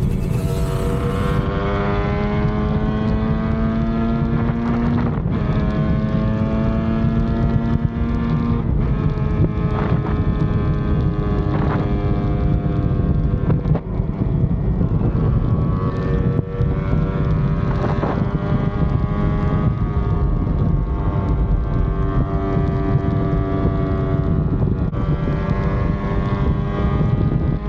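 Yamaha RD250 two-stroke twin engine pulling under load while the bike is ridden, its pitch climbing and dropping back several times as at gear changes, with wind noise on the microphone.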